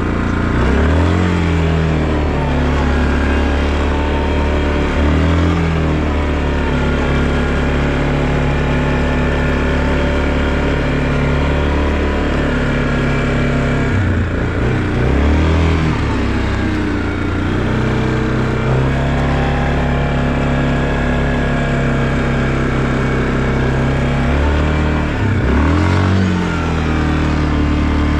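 Vehicle engine running under way, its pitch dipping and climbing again several times as it shifts gears or comes off and back onto the throttle.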